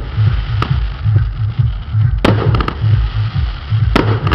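Fireworks going off: single sharp bangs about half a second and two seconds in, a quick run of crackles just after, and a loud bang near the end as a shell bursts low near the ground.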